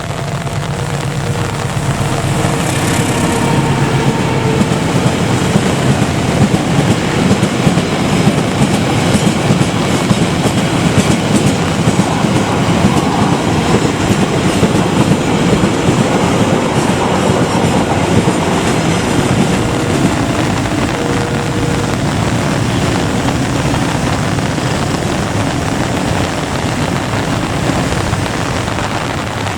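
A train passing close by, its wheels clattering over the rail joints, in heavy rain. The sound builds about two seconds in and eases a little near the end.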